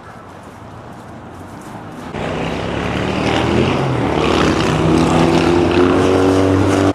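A motor vehicle's engine passing close by, swelling in about two seconds in, its pitch shifting midway, and cutting off suddenly near the end.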